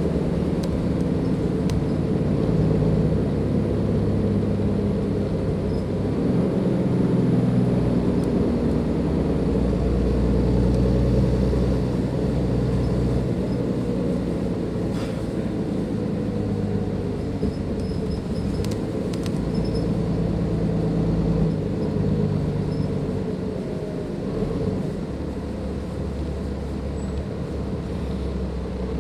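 Cummins ISLe 340 diesel engine of a Dennis Enviro 500 double-decker bus running under way. Its low note steps up and down in strength several times, with a few brief clicks or rattles near the middle.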